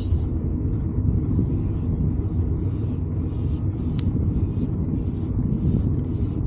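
Steady low rumble of wind buffeting the microphone during a bike ride, with a single sharp click about four seconds in.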